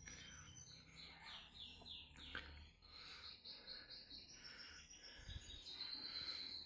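Faint bird chirping: a quick run of short, falling high chirps, then a held high note near the end.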